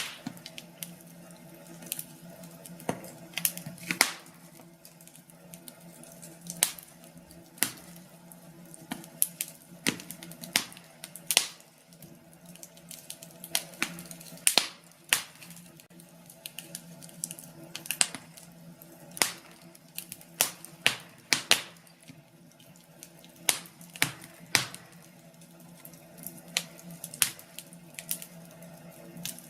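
Wood fire burning in a fireplace, crackling with irregular sharp pops over a low steady hiss and a faint steady hum.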